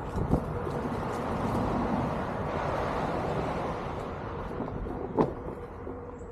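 Onewheel GT electric board rolling along a trail, with wind on the microphone and a faint steady tone running under the tyre noise. A sharp knock comes about five seconds in.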